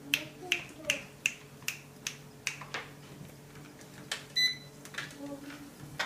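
Home treadmill running with a cat on the belt: a steady motor hum under regular sharp clicks, about two to three a second. A short electronic beep comes about four and a half seconds in.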